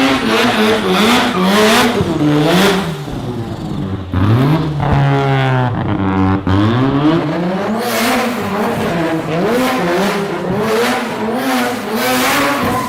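Rotary engine in a car revving hard, its pitch rising and falling over and over as the throttle is blipped. One rev is held steady in the middle, then drops away.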